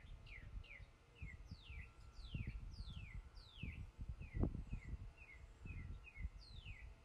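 Birds chirping: a quick run of short calls that each slide down in pitch, with a few longer sweeping calls among them. Under them are low rustling thumps, the loudest a single thump about four and a half seconds in.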